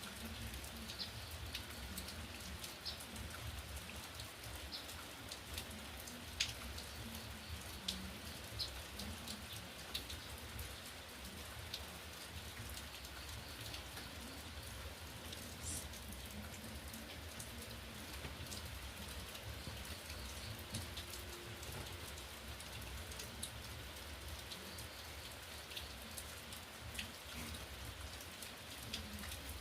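Steady rain falling, with scattered louder single drops striking a surface now and then.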